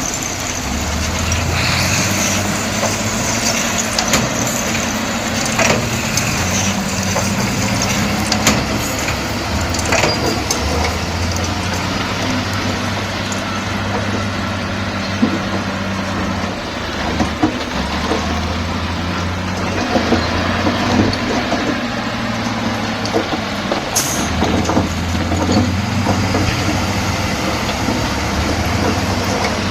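Komatsu D68E bulldozer's diesel engine working under changing load, its note stepping up and down every few seconds, with scattered sharp knocks.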